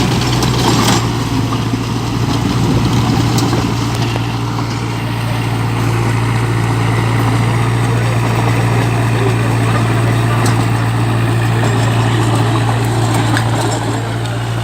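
Kubota 34 hp compact tractor's diesel engine running steadily at a constant speed, with an unchanging low hum.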